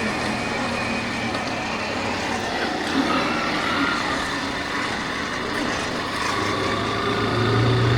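Yamaha Factor 150's single-cylinder four-stroke engine running on the move, under steady wind noise on the microphone; the engine note grows louder near the end.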